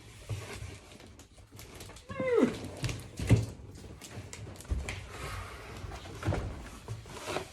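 A pet's short whining cry that falls steeply in pitch, about two seconds in, over scattered rustling and knocking of cardboard packaging being handled.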